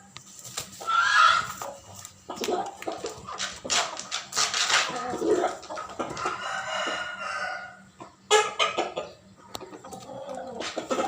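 Game chickens (shamo and aseel fowl) clucking and calling repeatedly, with one longer drawn-out call a little past the middle.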